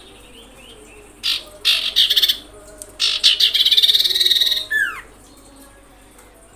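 Common iora giving loud, harsh rattling calls in quick bursts, the longest lasting nearly two seconds and ending in a quick falling whistle.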